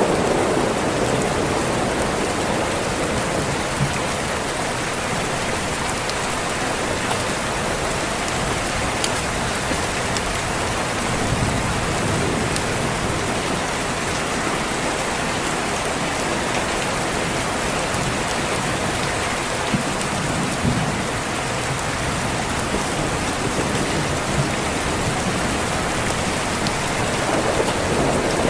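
Steady rain pattering on a window, with low rumbles of distant thunder swelling about twelve and twenty seconds in. A few faint clicks sound now and then.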